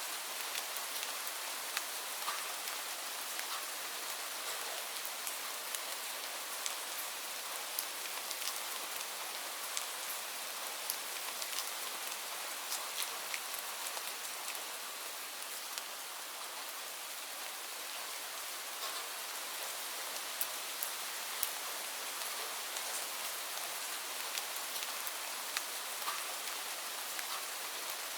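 Steady falling rain: an even hiss of rainfall with many distinct drops ticking sharply on a surface throughout.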